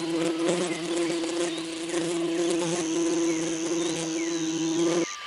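A bee buzzing: a steady, even hum of beating wings that cuts off about five seconds in.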